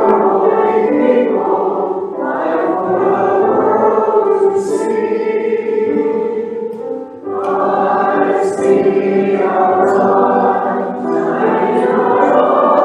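A group of voices singing a slow hymn together in harmony, with a short pause between phrases about seven seconds in.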